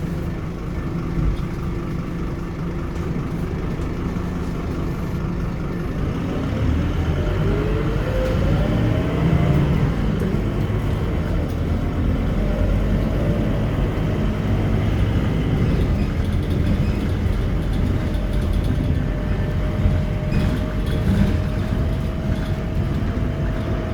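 Scania K230UB city bus running on the road, its diesel engine and drivetrain steady at first. A whine rises in pitch as the bus picks up speed a few seconds in, then holds at a steady pitch.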